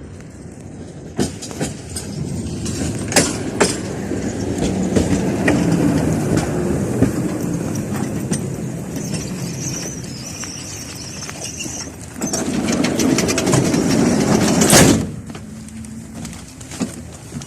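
A 71-605A (KTM-5A) tram running along the track: a rumbling run with sharp clicks of the wheels over the rail joints. It swells twice, with a thin high whine around the middle, and the second swell cuts off suddenly a few seconds before the end.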